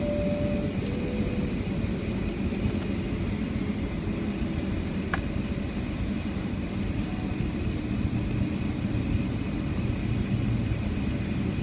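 Steady low cabin hum of a Boeing 757-200 parked at the gate, its ventilation running, with a faint steady whine above it and a single click about five seconds in.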